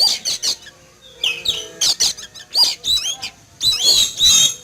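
Oriental magpie-robin (kacer) singing loudly in rapid bursts of varied whistled, sliding and harsh notes, with short pauses between bursts. The keeper takes the noisy outburst for fright at a hawk flying overhead.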